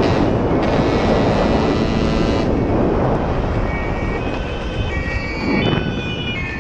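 A motorcycle running on the move, heavy with wind rush, with a few faint steady tones coming in near the end.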